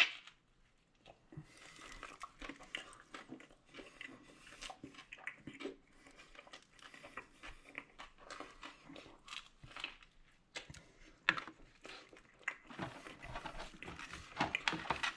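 Close-up chewing and biting of a McRib sandwich, with small wet clicks and rustles of handling, and a sharp knock right at the start. Near the end, denser rustling of the cardboard clamshell box as the sandwich is set back into it.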